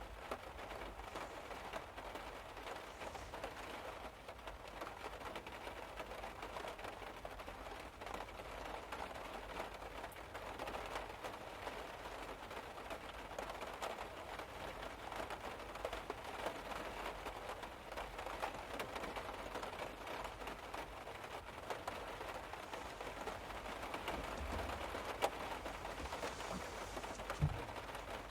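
Rain pattering on a car's roof and windows, heard from inside the car: a dense, steady spatter of drops. Two brief low thumps near the end.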